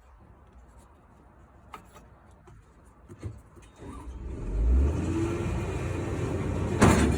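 Diesel truck engine with a newly replaced turbocharger starting: after a few light clicks it catches about four and a half seconds in with a sharp rise in level, then runs steadily, with a sharp knock near the end.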